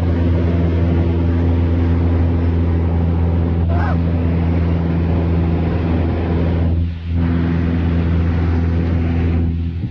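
Cessna light aircraft's piston engine and propeller droning steadily. A brief rising chirp comes about four seconds in, and the level dips briefly about seven seconds in.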